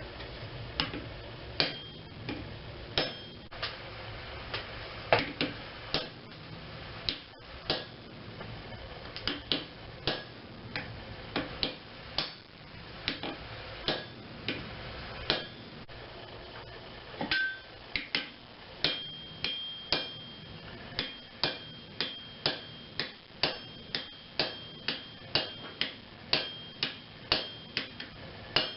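Hand hammer striking a hot railroad spike on an anvil during forging, blows at an uneven pace that quickens to about two a second in the second half, many leaving a high ringing tone. A steady hum runs underneath.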